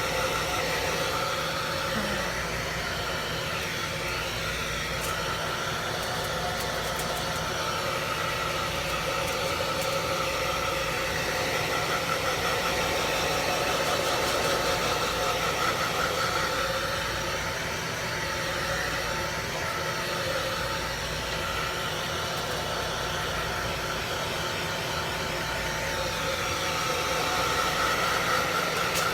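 Hair dryer running steadily on its low setting, a constant blowing whir with a hum, swelling a little in loudness now and then.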